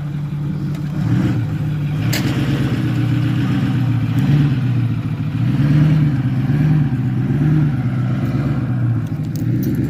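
Ford F-350 pickup's engine running at low speed as the truck manoeuvres, its pitch rising and falling a little. A single sharp click about two seconds in.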